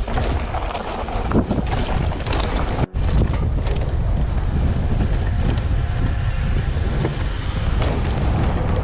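Wind buffeting the microphone of a camera on a mountain bike rider descending fast, a loud steady low rumble mixed with the noise of tyres on the trail and scattered clicks and rattles. The sound drops out briefly about three seconds in, then carries on.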